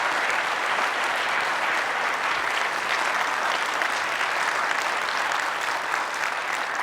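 A congregation applauding steadily, a dense sustained clapping for the choir and orchestra.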